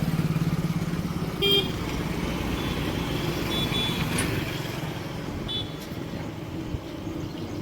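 Diesel engine running with a steady low pulsing note that eases off a little after the first second, with a few short high horn beeps about a second and a half, three and a half, and five and a half seconds in.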